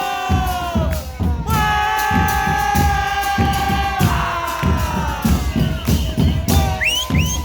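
Murga chorus singing long held notes together over steady bombo drum beats. Short rising high calls come in near the end.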